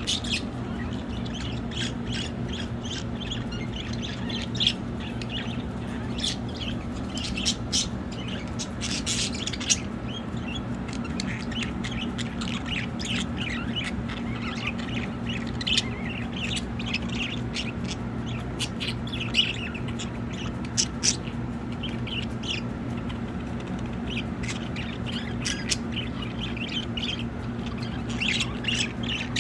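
Budgerigars chirping and chattering in short, scattered calls with occasional sharper squawks, over a steady low hum.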